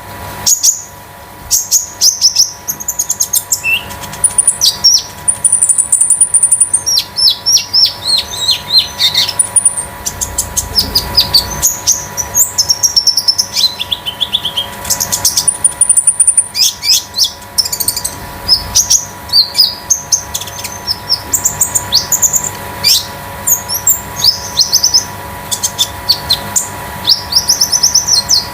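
Caged konin songbird singing a long, rapid run of high chirps and quick downward-sliding notes, phrase after phrase with brief gaps, over a faint steady electrical hum.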